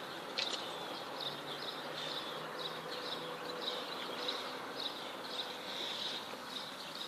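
Insects chirping: short high chirps repeating a few times a second, over a faint steady hum.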